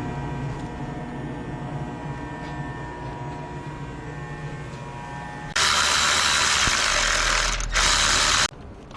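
A steady mechanical hum with a few steady tones, then a sudden loud hiss of pressurised gas or air jetting out for about three seconds. The hiss breaks off once for a moment and then cuts off abruptly.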